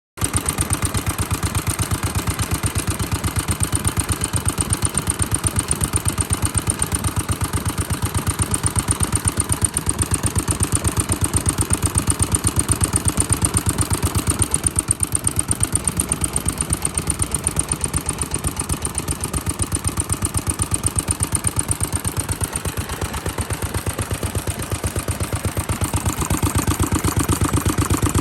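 A vintage Japanese stationary engine from around 1960 running steadily at idle, with an even, rapid beat of firing strokes.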